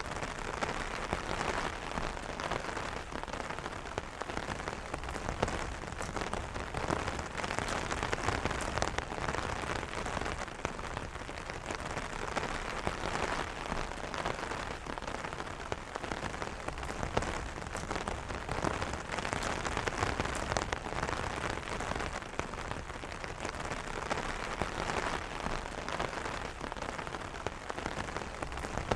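Steady rain falling on an umbrella, a dense patter of many drops striking the canopy.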